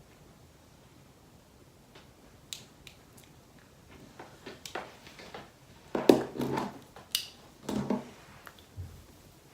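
Irregular handling noises: soft rustles and small clicks, starting about two seconds in and loudest in a cluster around six to eight seconds in.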